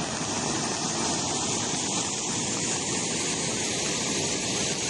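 Floodwater rushing through a ravine channel in a steady, loud torrent.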